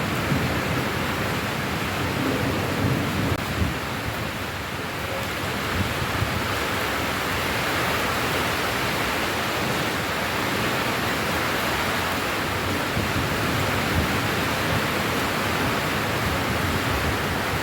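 Steady rain: an even, continuous hiss of falling rain.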